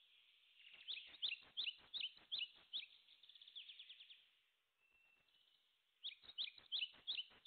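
Small bird chirping: a run of short, sharp chirps about three a second, a quick trill, a pause, then another run of chirps near the end.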